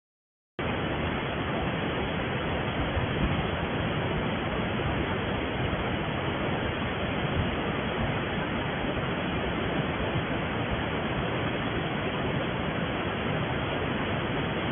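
Waterfall's water rushing in a steady, even wash of noise that cuts in abruptly about half a second in.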